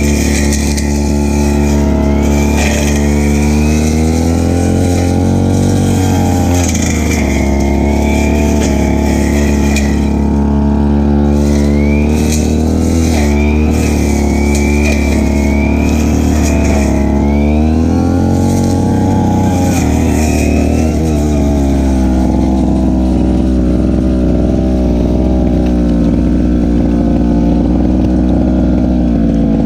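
Stihl FR3001 backpack brushcutter's two-stroke engine running fast while cutting grass. Its pitch dips and recovers twice as the load comes on, then holds steady near the end.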